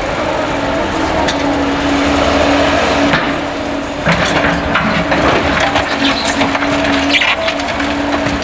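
Caterpillar excavator engine running steadily under load on demolition work, with debris cracking and crunching from about four seconds in as material is broken up.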